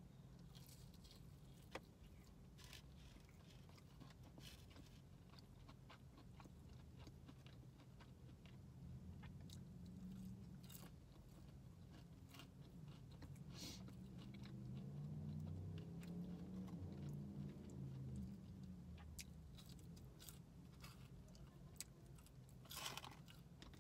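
Quiet, close-up chewing of a breaded fried chicken finger. A bite comes at the start, followed by mouth-closed chewing with small crunches and wet clicks scattered throughout.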